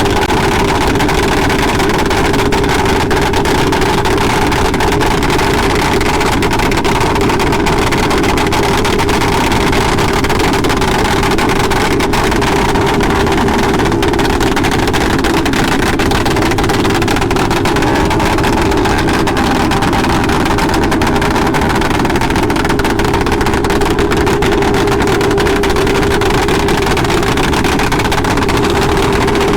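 Motorcycle engine running steadily at an even cruising speed, a constant drone that holds one pitch.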